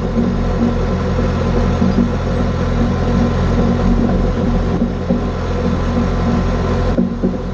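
John Deere 550G crawler dozer's diesel engine running steadily at an even speed.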